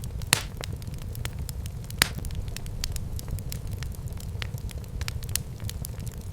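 Wood fire burning in a fireplace, crackling with irregular sharp pops over a steady low rumble, two louder pops standing out, one within the first second and another about two seconds in.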